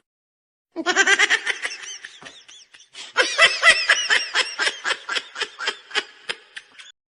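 A person laughing hard in rapid, rhythmic bursts of breathy 'ha' sounds. The laugh starts about a second in, dips briefly, and then comes back louder before it cuts off abruptly near the end.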